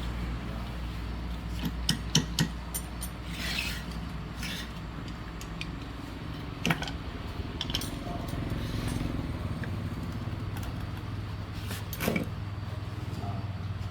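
Metal tools and pump parts clinking and knocking a few times during hand repair work, with a couple of short scrapes, over a steady low hum.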